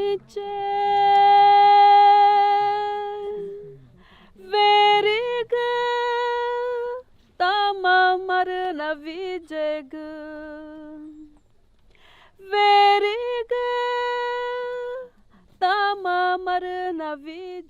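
A woman singing unaccompanied in several phrases, opening on one long held note, with short pauses between phrases.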